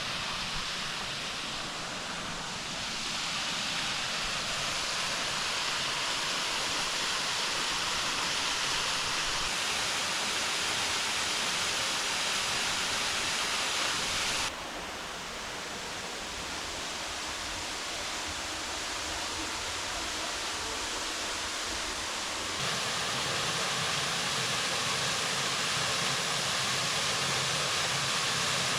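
Waterfall pouring into a rock pool: a steady rush of falling water that jumps in level abruptly three times, about 3, 15 and 23 seconds in.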